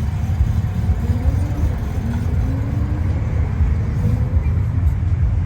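Toyota Sprinter Trueno's engine idling with a steady low rumble.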